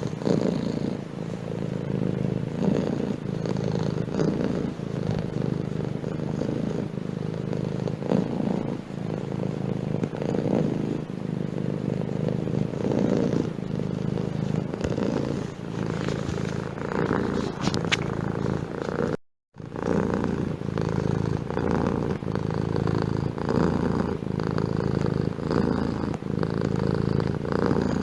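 Domestic cat purring steadily, the purr swelling and easing in a slow breathing rhythm. The sound cuts out for a split second about two-thirds of the way through.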